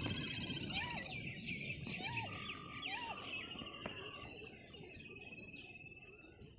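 Morning birdsong, with several birds calling and trilling over a steady high-pitched insect drone. Three short rising-and-falling notes come about a second apart in the first three seconds, and the whole fades out near the end.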